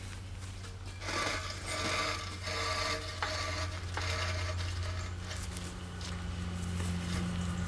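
Scratchy mechanical rubbing and whirring from about a second in until about five seconds in, over a steady low hum.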